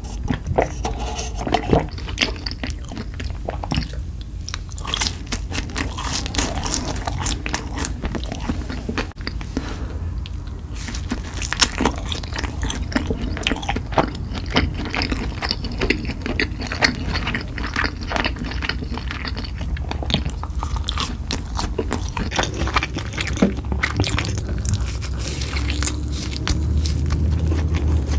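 Close-up eating: repeated crunchy bites and chewing of crisp fried fast food, over a steady low hum.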